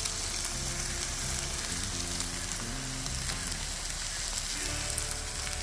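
Scrambled eggs with spinach and green onion sizzling steadily in a pan over a high flame on a small butane camp stove.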